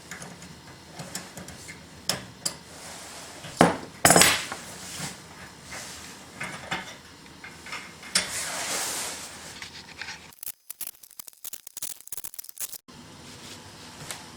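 Hard objects, metal among them, being handled and set down: scattered clinks and knocks, the loudest a few about four seconds in, with a scraping stretch later and a run of quick small clicks near the end.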